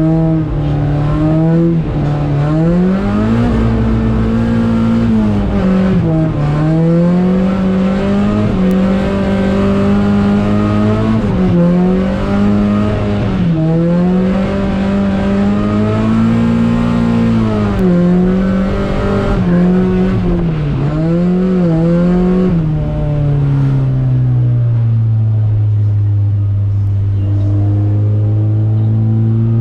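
Mazda MX-5 Miata's 1.6-litre four-cylinder engine under hard driving, its revs rising and falling again and again as the car is drifted. About 23 seconds in the revs drop and it runs lower and steadier, slowly climbing near the end.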